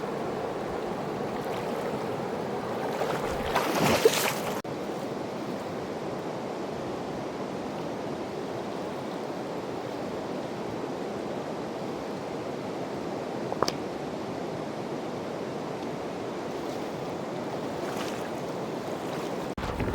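Fast mountain river rushing steadily. There is a louder swell of noise about four seconds in, and a single sharp click about two-thirds of the way through.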